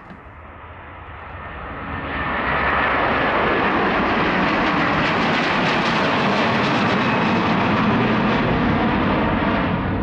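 A heavy wide-body jet airliner's engines at takeoff thrust during a departure, swelling over the first two seconds or so to a loud, steady jet noise. The high hiss is strongest around the middle and eases off near the end as the aircraft goes past.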